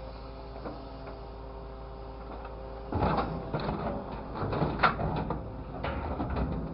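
A steady mechanical hum, then irregular rattling and knocking from about three seconds in.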